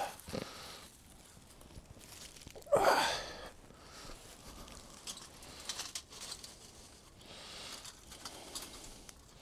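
Faint, irregular clicks and crackles from small kindling being laid on burning firelighters in a small camp fire bowl, with one short voice-like sound about three seconds in.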